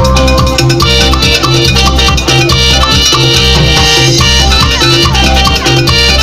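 Tropical dance band playing an instrumental passage of a cumbia, with a repeating bass line, a melody and shaken percussion keeping a steady rhythm.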